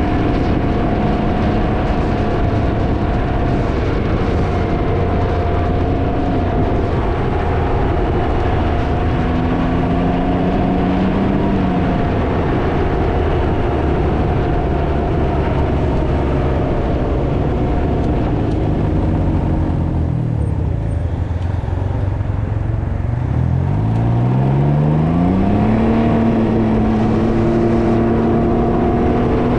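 Can-Am Ryker three-wheeler's engine running on the road under heavy wind noise buffeting the microphone. About two-thirds of the way through, the engine note drops away, then climbs steadily as it accelerates, and holds steady to the end.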